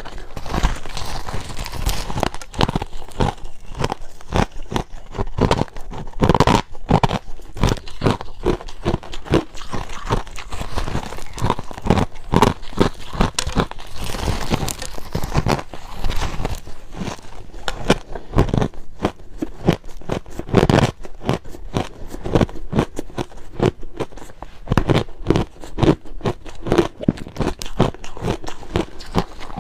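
Close-miked chewing of crushed ice: dense, irregular crunches, many a second, as the ice is bitten and ground between the teeth.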